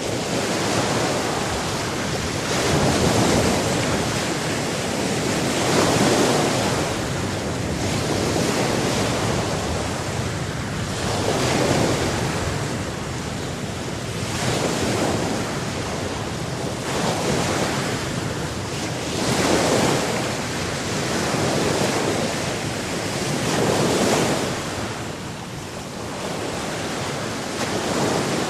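Ocean waves breaking and washing on the shore, one surge every few seconds, with some wind on the microphone.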